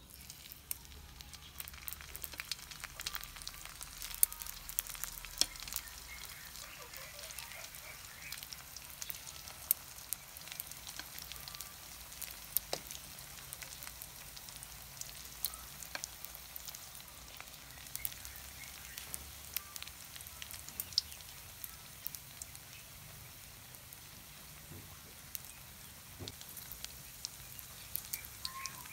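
Cheese sticks in spring-roll wrappers frying in shallow oil in a wok over low heat: a steady sizzle with frequent sharp crackles and pops.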